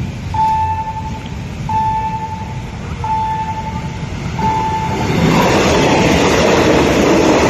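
Level-crossing warning signal sounding one steady tone in repeated notes about a second long, about every 1.4 s. About five seconds in, a train arrives and passes close by, its loud rumble and rail noise drowning out the signal.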